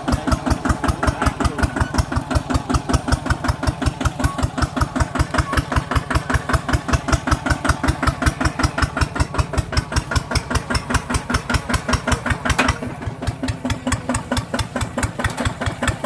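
ZT 155plus tractor's engine running steadily while plowing, with a fast, even chugging beat. Near the end there is a click, and the running becomes slightly quieter.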